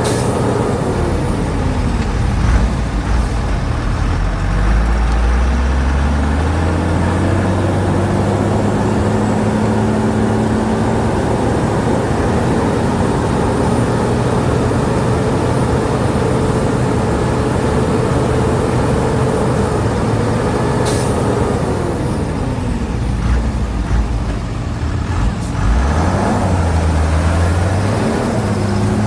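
Heavy diesel engine of a Shantui DH17C2 bulldozer working, its pitch falling about a second in, climbing back a few seconds later and holding steady, then dropping again past the twenty-second mark and rising near the end as the load and throttle change. A brief sharp hiss comes about 21 seconds in.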